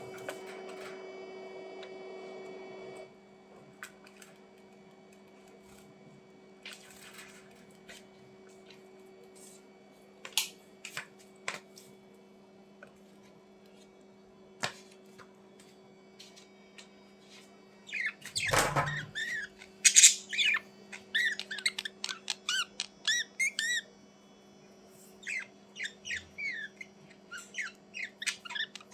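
Budgerigars chirping and squeaking in quick, short calls, with a dense loud burst of chirps about two-thirds of the way through and more near the end; scattered clicks and taps in the quieter middle stretch. A steady hum at the start cuts off about three seconds in.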